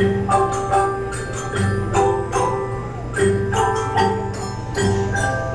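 A school instrumental ensemble playing a tune of struck notes that ring on, over a low bass figure that repeats about every one and a half seconds.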